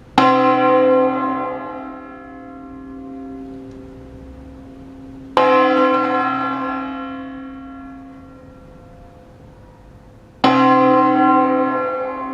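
Church bell, the large tenor bell of a ring tuned in C, struck three times about five seconds apart, each stroke ringing out and slowly dying away: a slow funeral toll.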